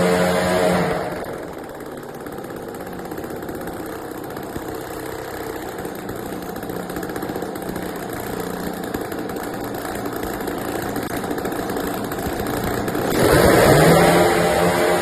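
550cc UAV engine turning a propeller. It is throttled back about a second in, idles steadily, then revs up quickly near the end to a high steady speed.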